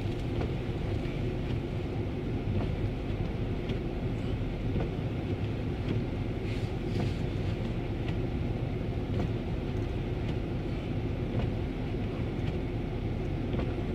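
Ford Crown Victoria's V8 engine running, heard from inside the cabin as a steady low rumble, with a few faint clicks.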